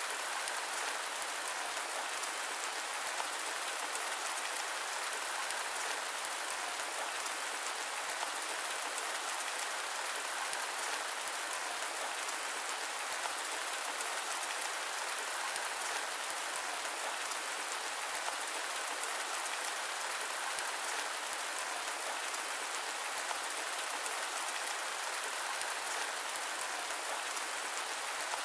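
Steady rain mixed with white noise: an even hiss with a dense patter of drops and no low rumble or thunder.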